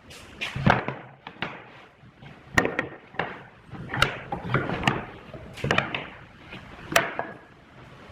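Wood being worked and handled: irregular wooden knocks and clatter, with four or five sharp strikes among quieter scraping and rustling.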